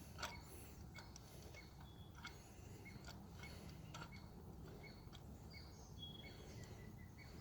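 Near silence, with faint short high ticks about twice a second and a few soft clicks.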